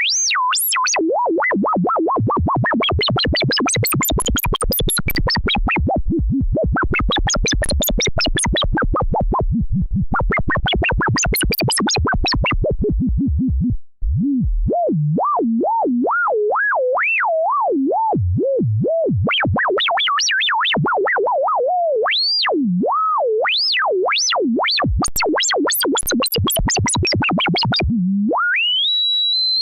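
Electronic synthesizer tones. For about the first fourteen seconds there is a fast run of buzzy notes; after a brief break a single pure tone slides up and down in pitch, theremin-like, and near the end it sweeps steeply upward.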